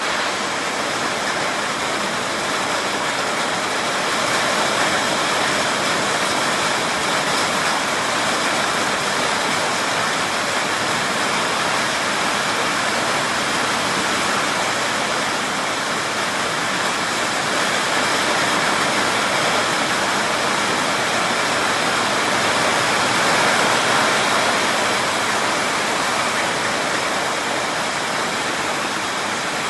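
Heavy rain of a big storm pouring down in a steady, dense hiss that swells slightly and falls back, with no thunder.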